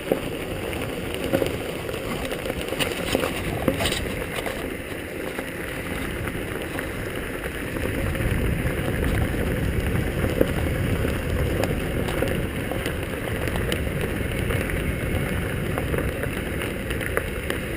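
Steady wind rumble on the microphone, growing heavier and deeper about eight seconds in.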